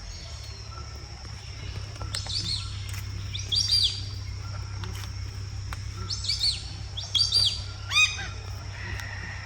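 Small birds chirping: short, high, down-slurred notes in quick clusters of two or three, repeated several times.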